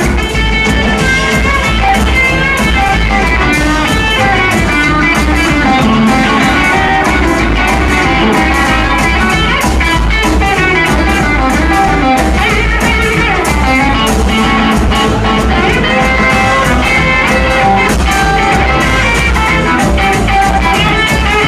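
Rockabilly band playing live, an instrumental break with an electric guitar lead over bass and drum kit.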